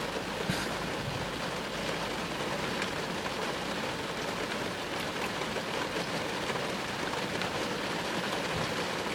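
Steady rain falling on a car, with scattered drops ticking, heard from inside the car.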